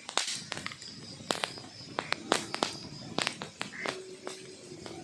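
Wood logs burning in a fireplace, crackling with irregular sharp pops and snaps over a low hiss.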